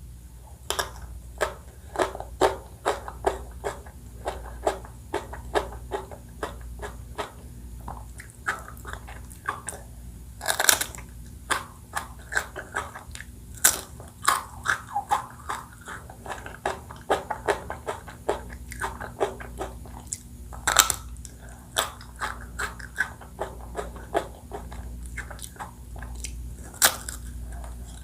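Close-miked eating sounds: a steady run of bites and wet chewing with crackly crunching, and a few sharp, louder cracks of biting into something crisp, such as the chocolate coating of an ice cream bar.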